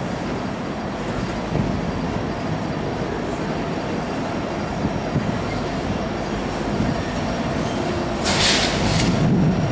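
Loaded coal train rolling past: a steady rumble of loaded hopper cars on the rails, swelling as the two rear distributed-power BNSF diesel locomotives draw near. A loud hiss breaks in about a second before the end.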